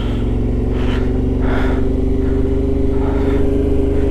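Yamaha Ténéré 700's parallel-twin engine running at a steady cruise, with wind rushing past in gusts.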